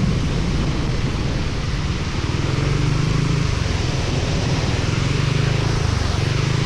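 Motorcycle engine running steadily on the move, under a constant rush of wind and wet road noise.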